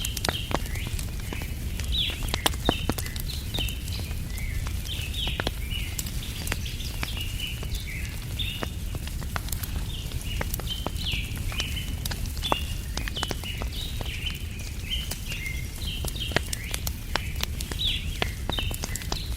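Campfire crackling with scattered sharp pops over a low steady rumble, while birds chirp continually in short high calls.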